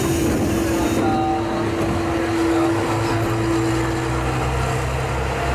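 Diesel railcar heard from the cab, running with a steady mechanical hum. A high hiss cuts off about a second in, and the hum's steady tone gives way to a lower one near the end.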